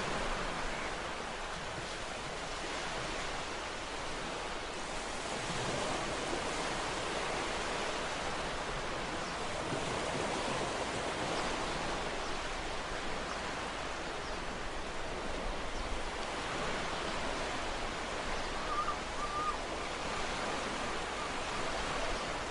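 Ocean waves washing onto a shore: a steady rush of surf with slow, gentle swells in loudness.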